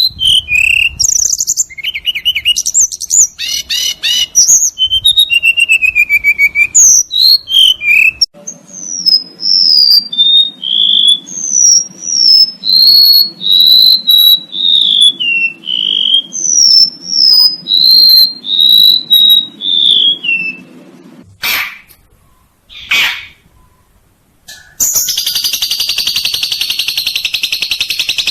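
Recorded songbird songs edited one after another: fast, varied twittering, then a long series of separate falling whistled notes over a faint low hum, then a couple of short harsh calls and, near the end, a dense buzzing trill.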